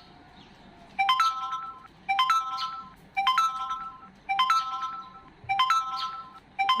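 An electronic ringtone-style chime tune, repeating the same short plucked phrase of steady notes about once a second.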